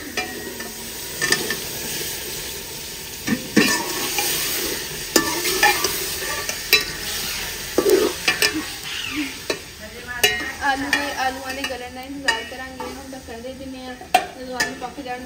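Sliced potatoes frying and sizzling in a metal cooking pot, stirred with a metal ladle that scrapes and knocks against the pot's sides again and again.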